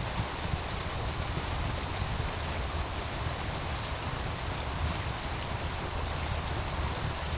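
Meltwater stream running steadily, with a low rumble underneath, and the occasional sharp pop of a crackling wood fire every second or two.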